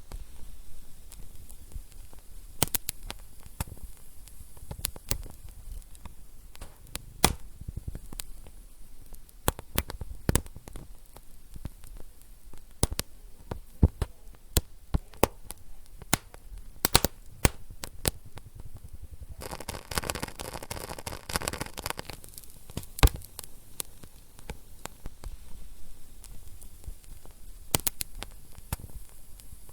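Fireplace fire crackling, with irregular sharp pops over a low steady rustle. About two-thirds of the way through, a denser run of crackling lasts about two seconds.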